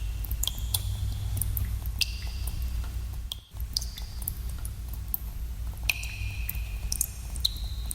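Water dripping in a cave: irregular drops plinking into water, several with a short ringing tone, over a steady low rumble. The sound cuts out for a moment about three and a half seconds in.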